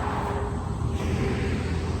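Vehicle driving: a steady low engine and road rumble with a faint steady hum, and a rush of road or wind noise that swells slightly about a second in.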